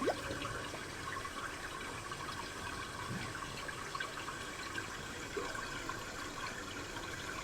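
Gently babbling river: a steady stream of flowing water with small bubbling and trickling sounds.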